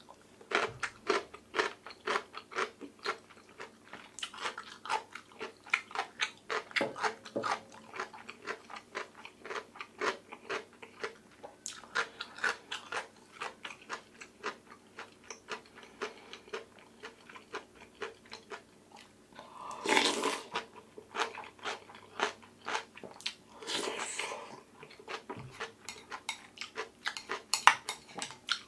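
Close-miked crunching and chewing of chonggak (ponytail radish) kimchi, with quick crisp crunches several times a second. Two longer, louder sounds come about two-thirds of the way through.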